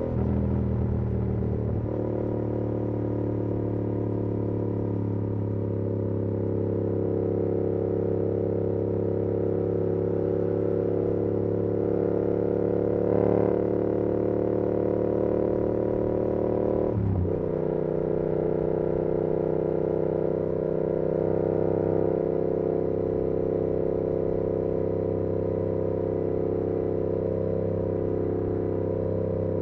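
2022 Yamaha R7's 689 cc parallel-twin engine through an SC-Project CR-T exhaust, running steadily at cruising speed. A little over halfway through, the engine note briefly dips and drops, then holds steady again.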